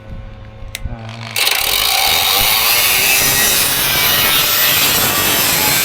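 Power sander working the truck cab's bodywork: after a few light clicks it starts abruptly about a second in and runs as a loud, steady hiss.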